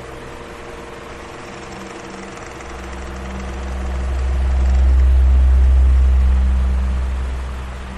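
Electric fan running steadily: a whoosh of air over a low motor hum. Partway through, a deep rumble of air on the microphone swells up over a few seconds and fades away again.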